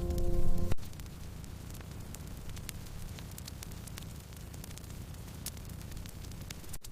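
Wood fire crackling: a steady hiss with scattered sharp pops and snaps. Background music cuts off abruptly under a second in.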